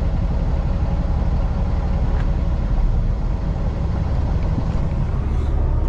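Semi truck's diesel engine running steadily, a constant low rumble.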